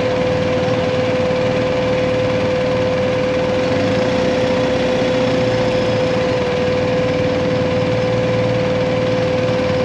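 BMW GS adventure motorcycle running at a steady pace: an even engine and road hum with one constant whining tone over it.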